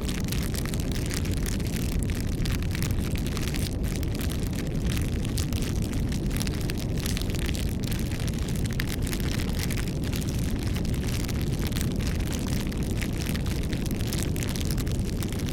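Campfire burning: a steady low rumble of flames with frequent irregular crackles and pops of the burning wood.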